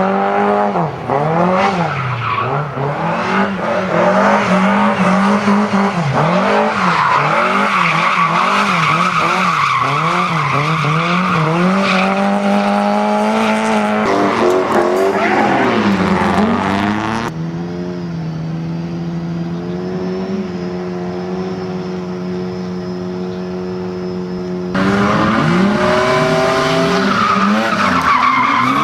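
Car engine revving up and down as the car is driven hard, with tyres squealing through the turns. For several seconds past the middle the engine holds a steady, quieter note with no squeal, then the swinging revs and tyre squeal come back near the end.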